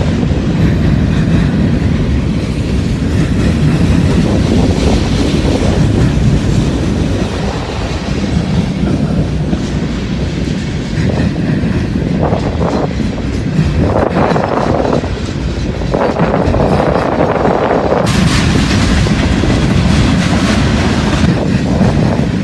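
A mixed freight train rolling past, its cars making a loud, steady rumble on the rails.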